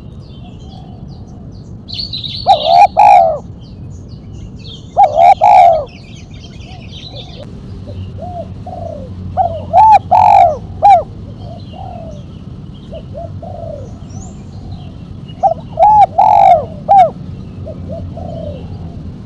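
Spotted dove (tekukur) cooing: four loud phrases of its call a few seconds apart, each a quick run of short notes. This is the sharp 'mercik kuk 1' call type. Faint high chirping of small birds sits behind it.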